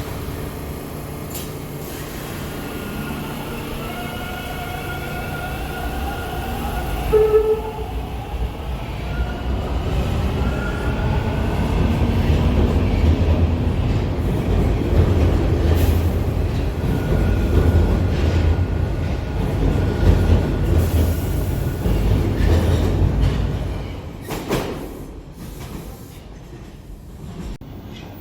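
TTC Line 2 subway train moving through the station. A whine climbs in pitch as the train picks up speed, with a short loud tone about seven seconds in. A heavy rumble of the passing cars builds and then dies away about 24 seconds in.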